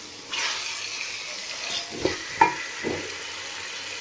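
Diced potatoes sizzling as they fry in oil and spices in a steel pan, being stirred with a wooden spatula; a few sharp scrapes and knocks of the spatula against the pan come in the second half.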